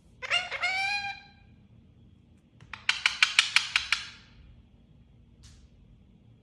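Parrot giving two quick rising squawks, then a rapid run of about eight sharp clicks in just over a second.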